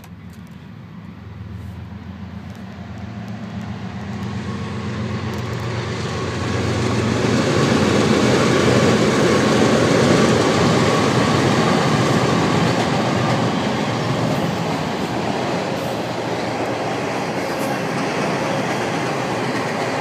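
CSX intermodal freight train crossing a steel truss bridge. The diesel locomotive engine hum grows louder as it approaches, then gives way to the steady rumble of wheels on the rails. The rumble is loudest about eight to ten seconds in and holds a little lower after that.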